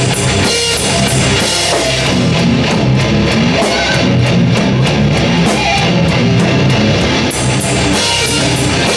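Live heavy rock band playing at full volume: distorted electric guitars over a pounding drum kit.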